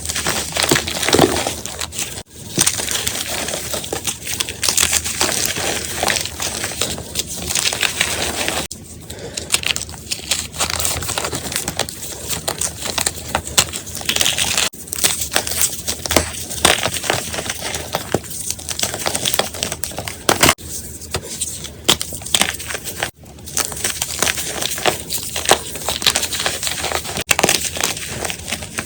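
Gym chalk being crushed and crumbled: dense, crackly crunching full of small cracks. It breaks off sharply and starts again several times.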